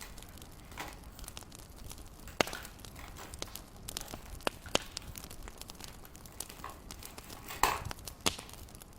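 Wood fire crackling in a fireplace: a low steady hiss with irregular sharp pops and snaps, the loudest a quick cluster of snaps near the end.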